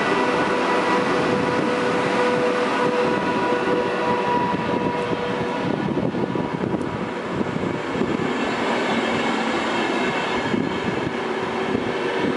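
VR Sr2 electric locomotive pulling away with a steady whine that fades after about five seconds. Double-deck passenger coaches then roll past, with a continuous rumble of wheels on rails.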